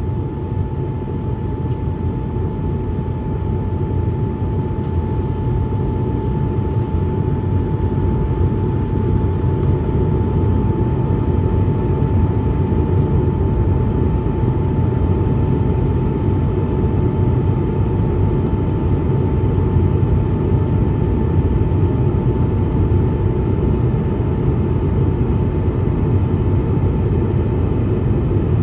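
Cabin noise of an Airbus A220-300 in its climb: a steady rumble of the Pratt & Whitney PW1500G geared turbofan engines and airflow, with a thin steady hum riding above it, swelling slightly over the first few seconds.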